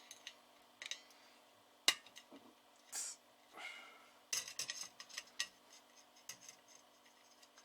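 Scattered light clicks, clinks and a few short scrapes as a CB whip antenna is handled and taken out.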